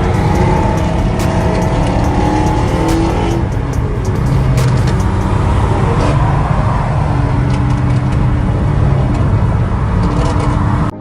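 Car engine and exhaust running loud and steady while driving, the engine pitch rising and falling with throttle, with frequent short crackles. The sound cuts off suddenly near the end.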